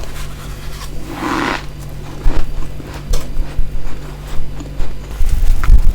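Close-miked bites and crunching of powdery freezer frost, a long crunch about a second in followed by several sharp, crisp crackles.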